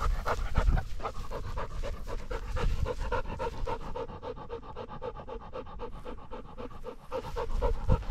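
A Labrador retriever panting hard and fast, right at the microphone of the camera strapped to it, at about four breaths a second. A few low rumbles from the dog's movement come near the start and near the end.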